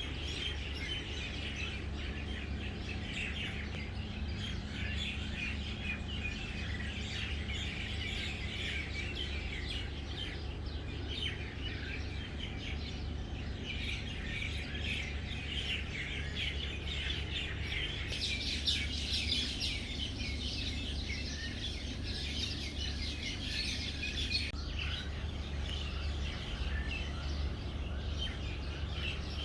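Many small birds chirping at once, a continuous chorus of overlapping short chirps and twitters, busiest about halfway through, over a steady low hum.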